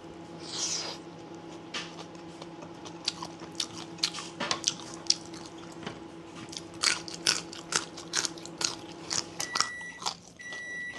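Close-up chewing of crunchy bamboo shoot soup, with many sharp, irregular crunches and wet mouth clicks over a faint steady hum. Near the end an electronic beeper starts, a high tone repeating about once a second.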